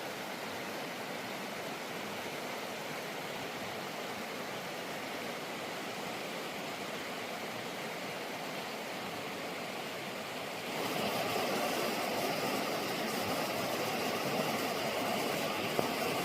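Tumalo Creek's water rushing steadily, growing louder and brighter about two-thirds of the way through.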